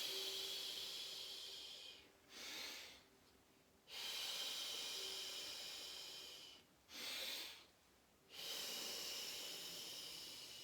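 Three long, airy, hissing exhalations, each fading as it runs out, with a short in-breath between them: a person voicing the breathy qigong healing sound for the triple warmer, three times.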